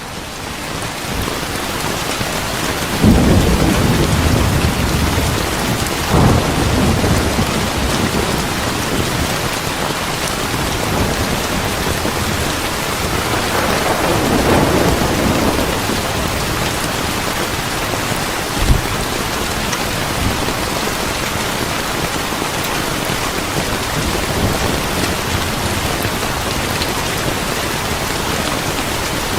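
Steady heavy rain with low rolls of thunder about three and six seconds in and a longer rumble around the middle, plus a brief low thump a few seconds later.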